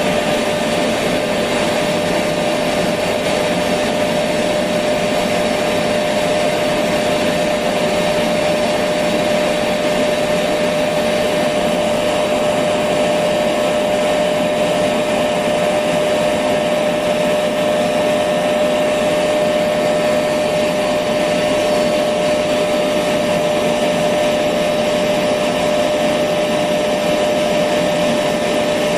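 Electric vacuum cleaner running steadily: an even rush of air with one constant whining tone from the motor, unchanging throughout.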